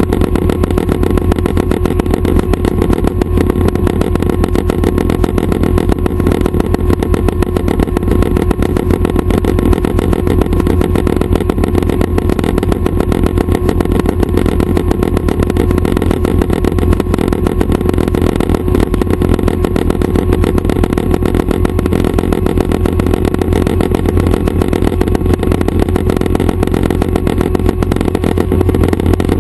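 Schweizer 269 light helicopter's piston engine and rotor running steadily, a continuous fast pulsing with no change in power.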